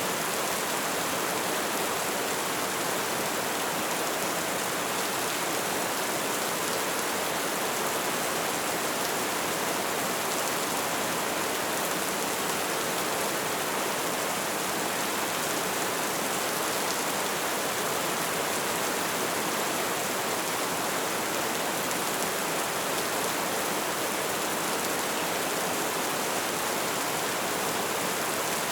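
Light rain falling, a steady even patter with no distinct drops or changes.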